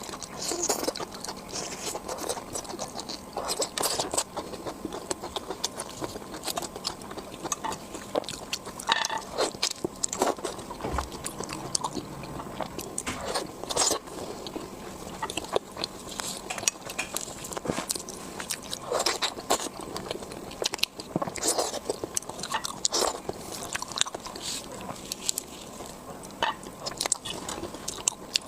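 Close-miked eating: repeated biting, crunching and wet chewing, with many short sharp clicks throughout.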